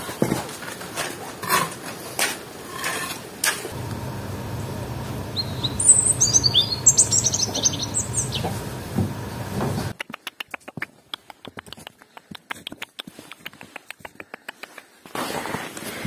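Small birds chirping in a quick series of high, rising and falling notes over a steady low rumble. Before them come a few sharp knocks from the brick laying, and after them a run of quick, faint clicks.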